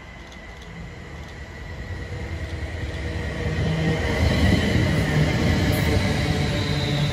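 Class 350 Desiro electric multiple unit running through a station at speed: the rumble of wheels on rail grows louder over the first few seconds as it approaches, then stays loud and steady as the carriages pass close by.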